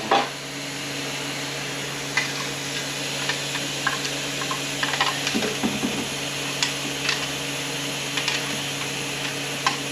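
Light metallic clicks, scrapes and small knocks of a screwdriver and steel parts being worked inside an automatic transmission during teardown, scattered over a steady shop hum. A short cluster of duller knocks comes about halfway through.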